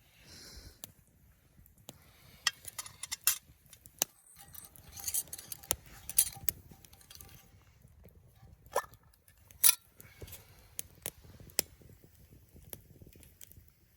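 Camp cookware and utensils being handled, with scattered light clinks and clicks of metal and a sharper knock about two-thirds of the way in.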